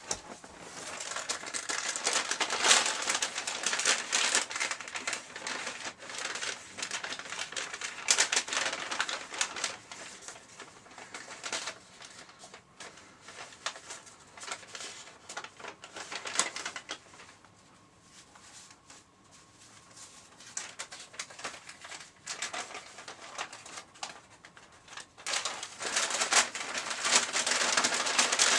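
Paper bag puppets rustling and crinkling as they are handled, a dense crackle that comes and goes, loudest in the first few seconds and again near the end.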